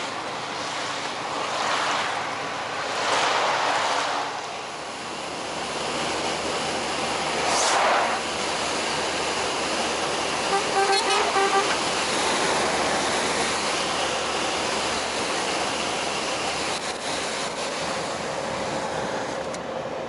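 Road traffic passing, with vehicles swelling by a few times. About ten seconds in, a vehicle horn sounds a quick run of short toots.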